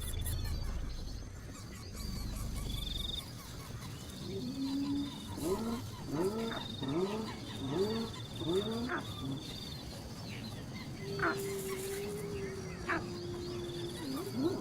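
Outdoor animal calls: a high, fast trill that comes and goes in short spells, and a run of short, low calls bending in pitch, one about every 0.7 s, followed by a long low note held for about three seconds.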